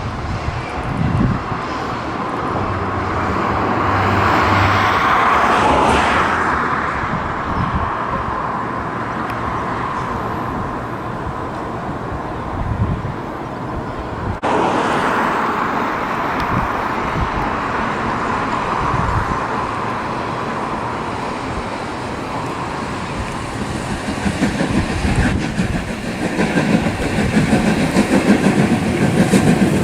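A train moving through on the rails, a steady running noise that swells early on, changes abruptly about halfway, and grows louder and more rhythmic over the last few seconds.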